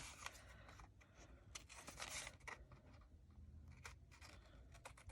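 Near silence with faint rustling and light scraping of paper being handled, as a small piece of washi tape is pressed onto a paper tag.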